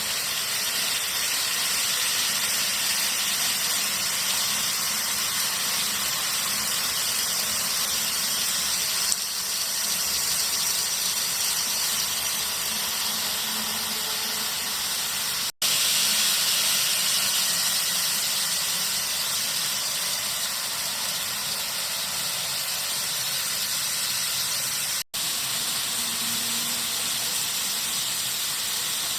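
N-scale model train running on its track: a steady rushing hiss with a faint high-pitched whine, broken by two very short silences.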